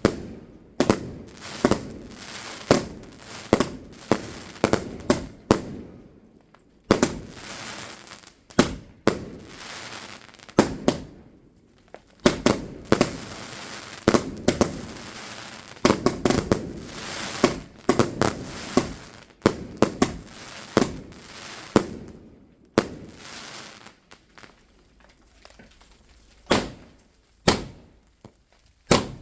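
Fireworks going off: a long run of sharp bangs, often several a second, with crackling between them and a few short lulls.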